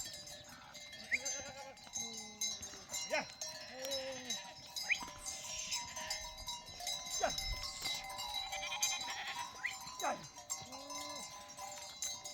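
Sheep bleating several times in short calls, over a steady ringing like animal bells.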